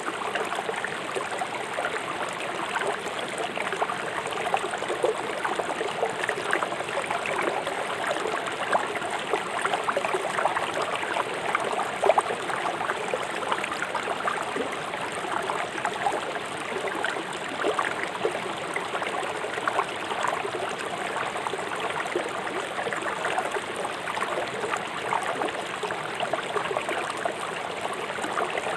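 Fast-flowing river water rushing over stones: a steady babble with many small splashes and gurgles throughout.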